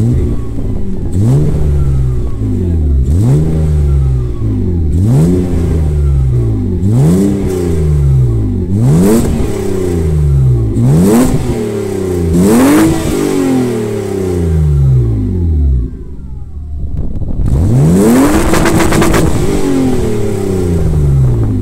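BMW M50B25 2.5-litre inline-six in an E30, revved through its single large tailpipe: a run of quick throttle blips about every two seconds, each rising and falling back, then a brief settle to idle and one longer, higher rev near the end.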